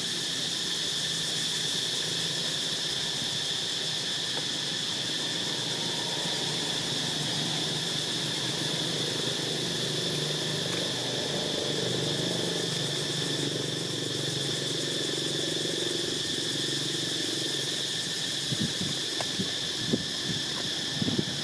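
Steady high-pitched insect chorus, with a few short sharp sounds near the end.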